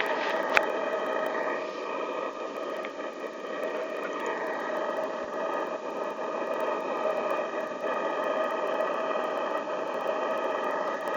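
Gas torch flame roaring steadily while burning out the carbon inside an exhaust pipe, the pipe ringing with a few steady tones, with a couple of sharp clicks near the start.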